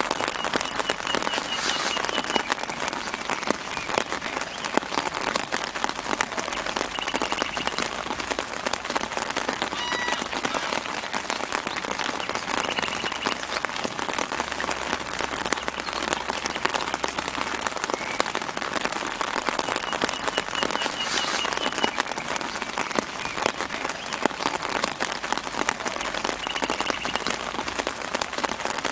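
Light rain falling on leaves and the ground: a dense, steady patter of drops. Faint bird chirps sound in the background a few times.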